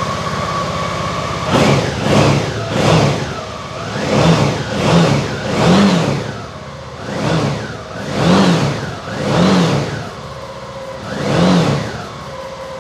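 Suzuki V-Strom 650's 645 cc V-twin engine, freshly started, idling, then given about ten short blips of the throttle, each revving up and dropping back, before settling to idle again near the end.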